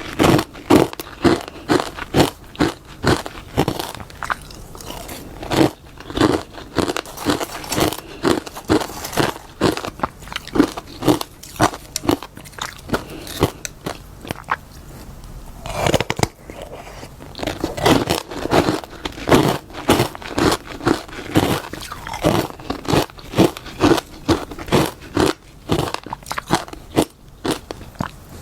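Close-miked biting and chewing of crunchy freezer frost: a fast run of crisp crunches, about two a second, with a short lull about halfway through.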